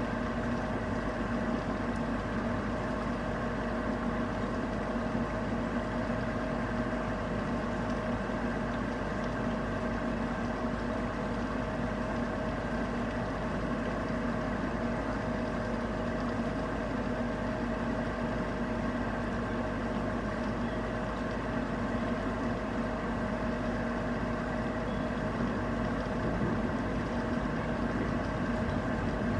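A steady mechanical hum held at one constant pitch over an even rushing hiss, growing slightly louder near the end.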